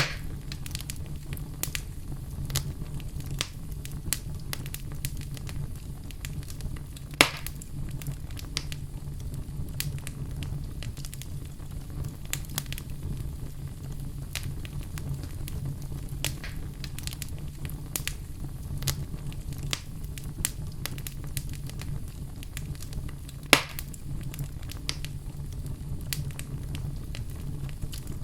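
Fire in a fireplace crackling steadily, with a low rumble underneath and two louder pops, about a third of the way in and near the end.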